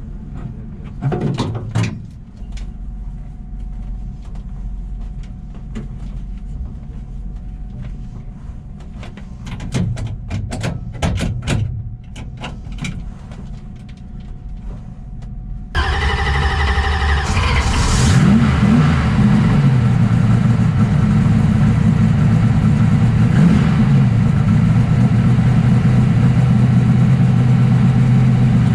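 Low rumble with scattered knocks, then about halfway through a sudden loud jump as the twin-turbo Corvette drag car's engine is cranked and fires, wavering up in pitch once before settling into a steady idle.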